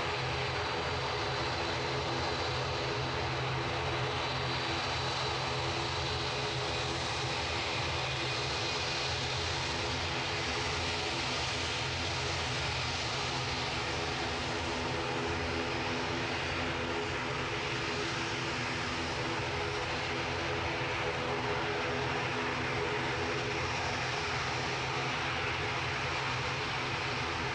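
Airliner engines running steadily at an airport runway, a continuous hum with a faint high whine that neither rises nor fades.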